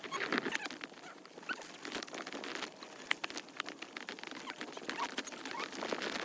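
E-bike rattling and clattering over a rough, bumpy trail: a fast, uneven stream of knocks and clicks.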